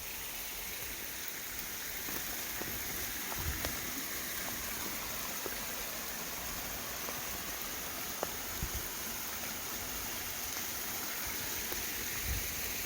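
Running water of a creek, a steady rush, with a few soft knocks.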